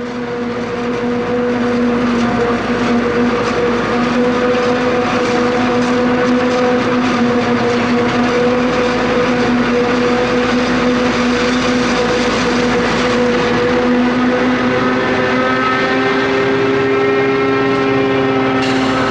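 A heavy vehicle's engine running steadily with a strong hum, joined in the last few seconds by a whine that rises slowly in pitch.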